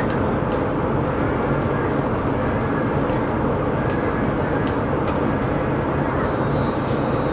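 Steady running noise inside the cabin of a CRH6A electric multiple unit, with a few faint sharp clicks and a faint high tone near the end.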